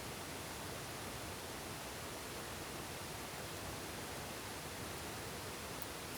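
Steady, even hiss of water in a forest, the sound of rain falling and a stream running, with no change in level.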